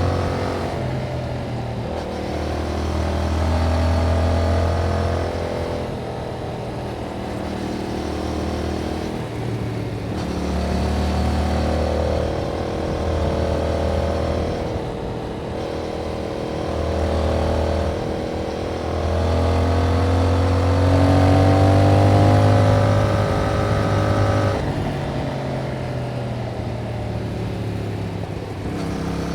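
2021 Yamaha MT-07's 689 cc parallel-twin engine running through its stock exhaust, rising and falling in pitch several times as it accelerates, eases off and shifts through the gears.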